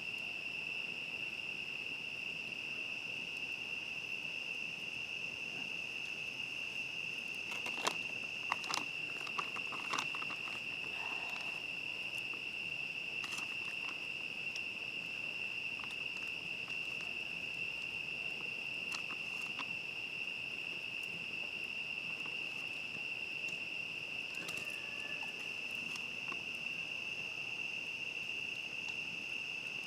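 Steady, shrill chorus of crickets, one unbroken high trill. A handful of sharp pops and clicks come about eight to ten seconds in, with a few more scattered later.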